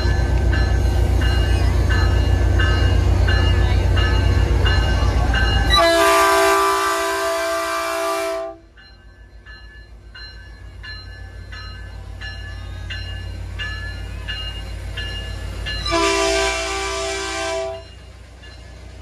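Diesel locomotive passing close by, its engine rumbling loudly at first, then dying away. It sounds its horn twice: a blast of about two and a half seconds some six seconds in and a shorter one near the end. A bell rings at a steady beat throughout, and the passenger cars roll past behind.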